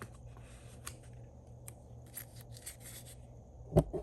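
Scissors snipping paper in a series of short cuts, with a louder knock just before the end.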